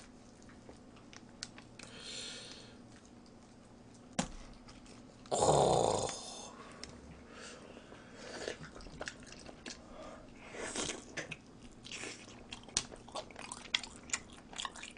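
A person chewing and biting into a cheesy deep-dish pizza, with small wet mouth clicks and smacks that come thicker in the second half. A brief, louder vocal outburst comes a little after five seconds in.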